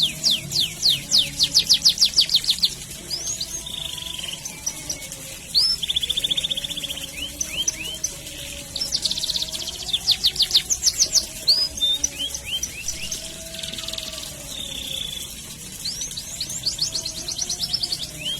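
Domestic canary singing: bursts of fast rolled trills, long series of rapidly repeated notes, alternating with short rising chirps.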